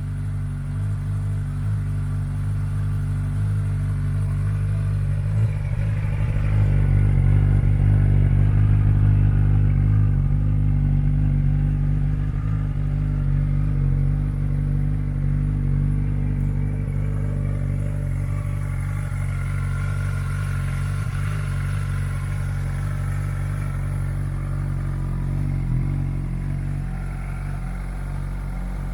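Suzuki GSX-S1000 ABS's inline-four engine running steadily at idle through a Yoshimura aftermarket exhaust, a little louder for several seconds about a quarter of the way in before settling back.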